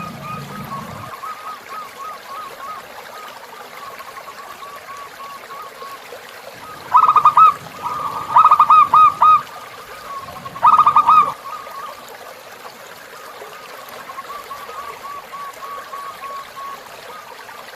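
Zebra dove (perkutut) cooing in three loud bursts of quick repeated notes, about seven, eight and a half, and eleven seconds in. Under it a river trickles steadily, and a thin run of repeated bird notes carries on throughout.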